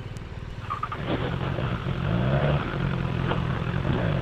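Motorcycle engine pulling away at low speed, its revs rising and dipping as it moves off, then running steadily.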